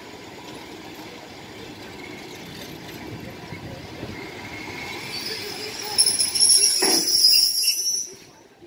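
A train moving along the track with a rumble that grows, and a high-pitched metallic squeal that rises and gets loud over the last few seconds. There is a knock about seven seconds in, and the sound cuts off abruptly near the end.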